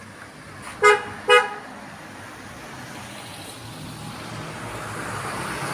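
A vehicle horn beeps twice in quick succession, two short toots. Then a rushing vehicle noise slowly builds, growing louder toward the end.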